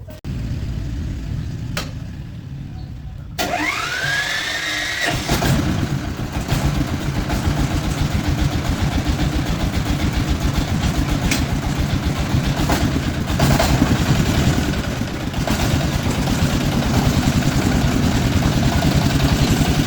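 Farm truck engine starting with a rising whine about three and a half seconds in, then running steadily with an even low beat.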